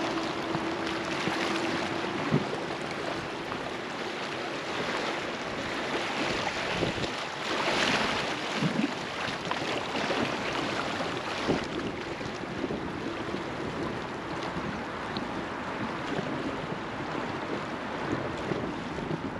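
River water rushing and splashing around a floating raft, with wind buffeting the microphone. The water swells louder about eight seconds in, and a faint steady hum runs through the first two seconds.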